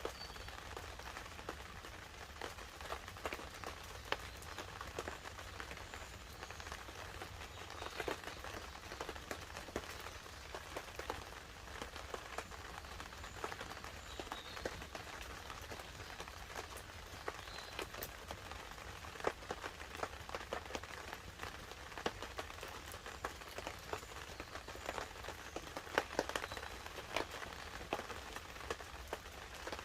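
Light rain pattering on a tarp over a wood campfire, with a steady hiss and many irregular sharp crackles and pops.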